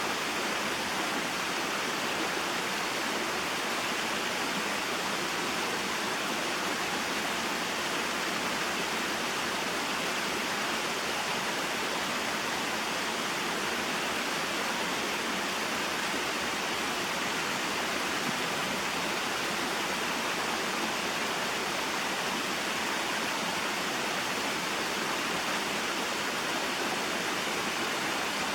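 Small mountain waterfall and stream flowing: a steady, unbroken rush of falling and running water.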